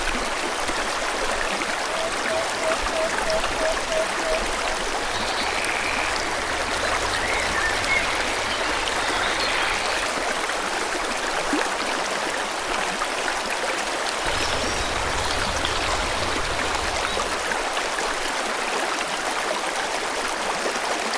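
Forest stream flowing steadily, an even rush of water. Birds call over it: a quick run of about eight short, low repeated notes a couple of seconds in, and a few faint higher chirps through the middle.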